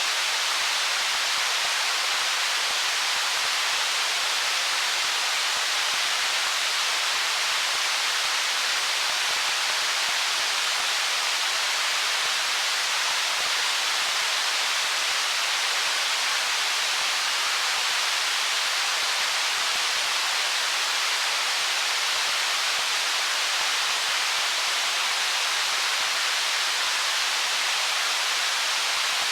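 Stream water running over stones: a steady, even hiss with little low rumble and no change in level.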